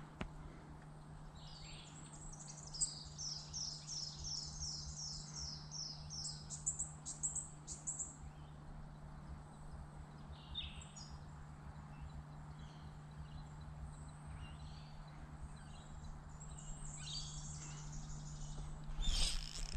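Birds calling: a run of quick, high, falling notes, about three a second, then scattered shorter calls, over a steady low hum. A brief rustle near the end.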